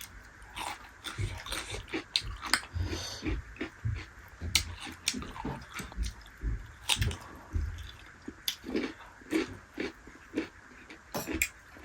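Close-up eating sounds: chewing and mouth smacks with irregular wet clicks, scattered through the pause.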